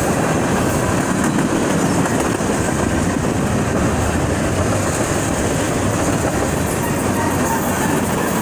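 Freight train cars rolling past at a grade crossing: a steady, loud rumble and rattle of steel wheels on the rails.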